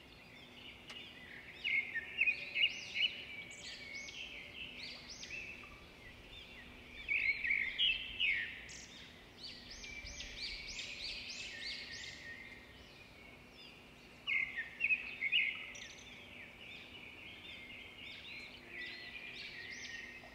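Small birds chirping and twittering in quick runs of high notes, busiest around two, seven to eleven, and fifteen seconds in, over a faint steady hum.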